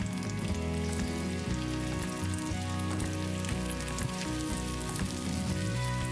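Sliced carrots and garlic sizzling in hot oil in a frying pan, a steady crackle of many small pops, over soft background music with sustained notes.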